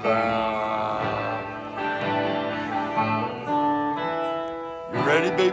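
Live rock band music led by guitar, with long held notes. A busier passage of wavering notes comes in near the end.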